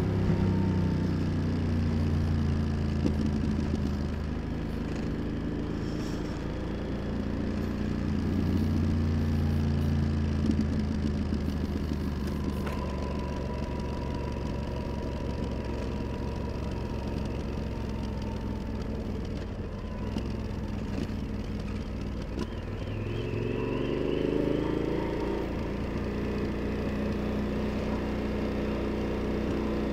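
Yamaha XT1200Z Super Tenere's parallel-twin engine running on the move, heard from the rider's position over road and wind noise. The engine note rises and falls several times with the throttle, with a clear rise in pitch as it accelerates about three-quarters of the way in.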